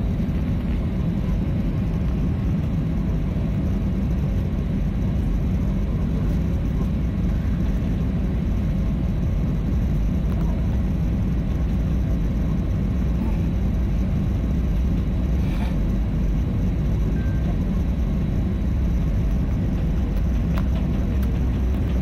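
Steady low rumble of an airliner's engines and cabin air, heard from inside the passenger cabin, holding an even level throughout.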